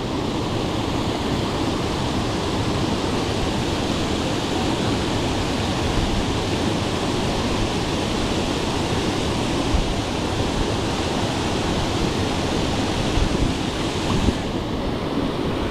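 Steady rushing noise of wind and moving water on a GoPro's microphone, with no distinct events; the higher hiss thins out about a second before the end.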